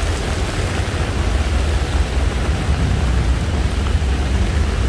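Heavy rain falling steadily, an even hiss with a deep low rumble beneath it.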